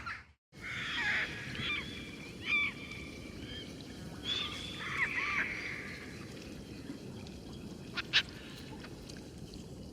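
Bird calls: after a brief dropout, a series of short, spaced calls over about five seconds, then two sharp clicks about eight seconds in.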